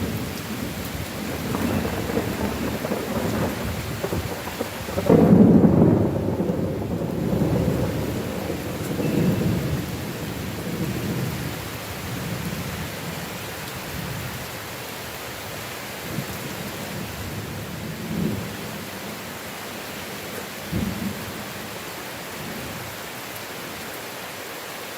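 Heavy rain falling as a steady hiss under a thunderstorm. About five seconds in a sudden loud clap of thunder rolls on as a low rumble for several seconds, and two shorter rumbles follow later.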